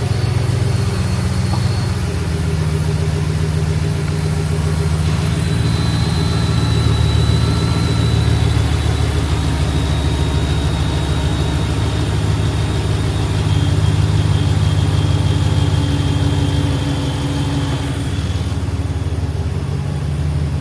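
Truck engine idling steadily after its idler pulley was replaced, running with no whining or whistling from the belt drive.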